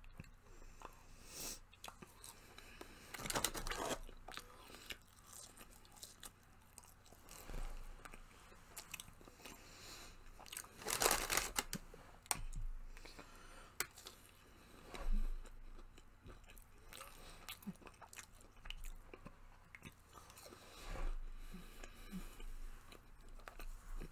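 Close-up chewing and crunching of fried fast food, chicken nuggets dipped in sauce, with a few louder crunchy bursts about three seconds in and again around eleven seconds.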